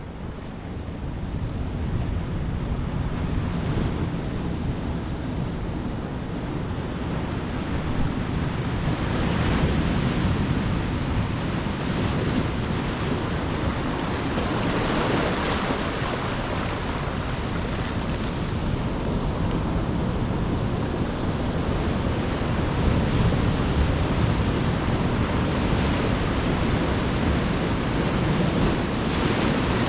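Ocean waves breaking and washing on the shore, a continuous rushing surf that swells several times, with some wind noise on the microphone.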